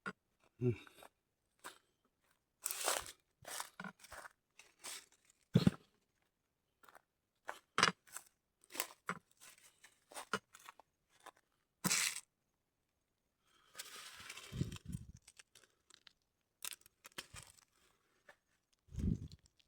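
Irregular crunching and crackling of dry plant material being handled and broken, in short sharp bursts with pauses between, and a longer rustle about two thirds of the way in.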